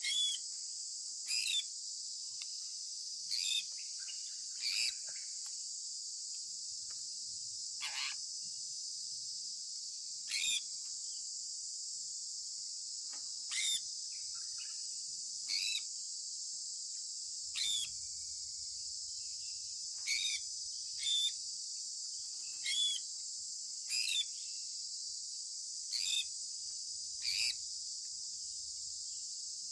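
Sun conure parrot giving short, sharp, shrill chirps, one every one to three seconds, about fifteen in all, over a steady high-pitched drone like crickets.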